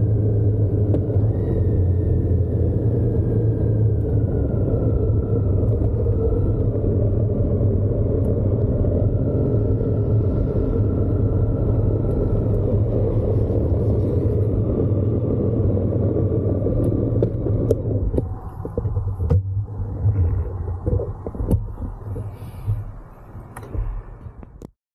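Motorcycle riding noise: a steady low rumble of wind and engine. About 18 seconds in it drops and becomes uneven, then cuts off abruptly just before the end.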